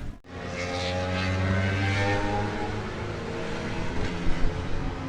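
Classic racing motorcycle engine running at fairly steady revs, its pitch drifting slowly, with a couple of louder blips near the end.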